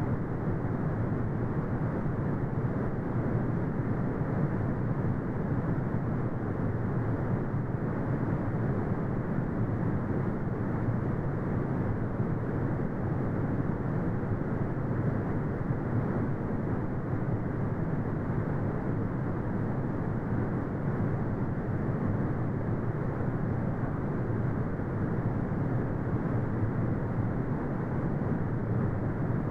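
Brown noise: a steady, deep rumbling hiss with most of its weight in the low end and little above the midrange, unchanging throughout.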